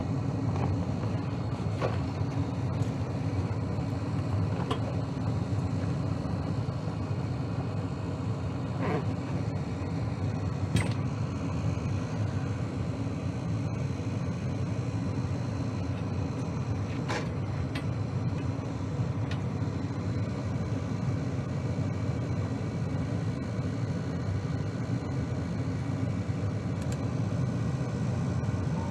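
Gas furnace running steadily, retested after its flame sensor was cleaned, with a few faint clicks.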